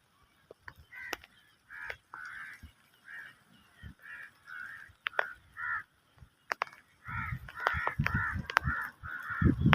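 A puppy whimpering and yelping in a run of short, high calls, with sharp clicks between them. Low bumping and rustling from handling comes in for the last three seconds.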